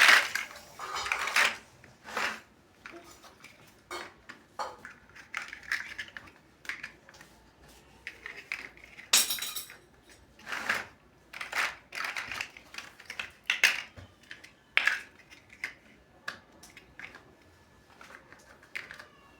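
Plastic toy building bricks being handled and snapped together: irregular clicks and short rattles, the loudest about nine seconds in.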